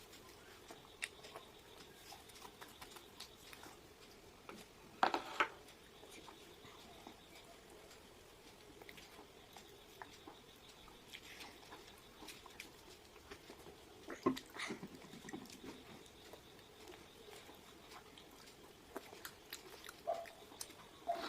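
Faint eating sounds of fried chicken being chewed, with scattered small clicks and taps and a couple of louder brief knocks, about five seconds in and again near fourteen seconds.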